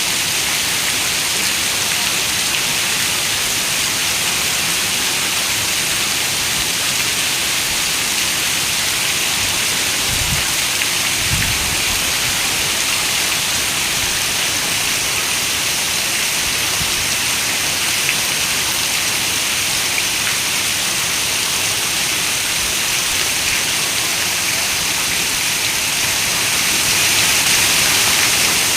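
Steady rain, a dense, even hiss without a break, with two short low rumbles about ten and eleven seconds in.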